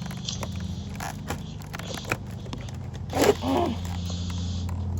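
Pliers working at a vacuum cleaner's tough power-cord insulation: scattered clicks and creaks, with a louder rasping squeeze about three seconds in, over a steady low hum.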